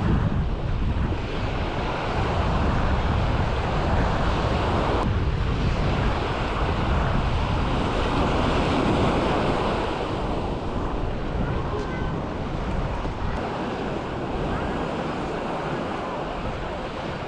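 Sea waves washing onto the beach, with wind buffeting the microphone; the surf swells and eases, growing a little quieter near the end.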